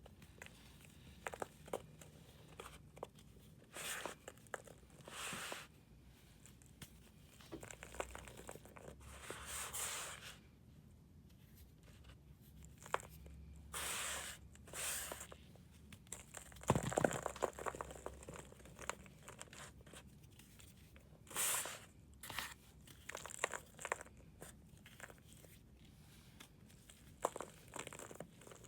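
Pressed powder blocks being crumbled and shaved: irregular soft crunches and short scraping rasps every second or two, with a few sharp crackles between them.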